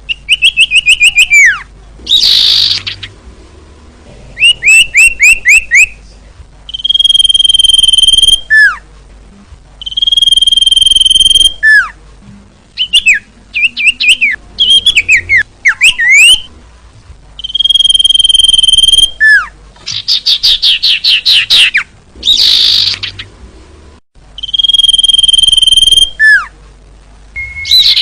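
Female common iora (cipoh) calling: long level whistles about a second each, alternating with quick runs of short falling notes, steep down-slurred notes and several harsh, raspy chatters. It is the female's call, used to lure males.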